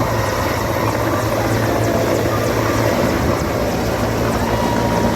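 Helicopter engine and rotor running steadily, a constant loud noise with a deep, even hum.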